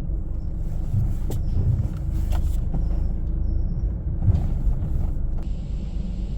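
Steady low rumble with a few light clicks and knocks over it.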